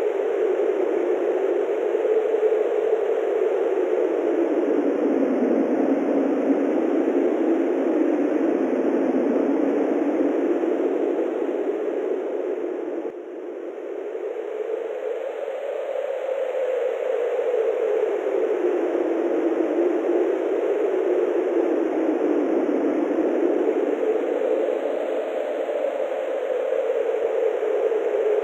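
Steady wind rushing, its pitch slowly rising and falling every several seconds, with a brief lull about thirteen seconds in.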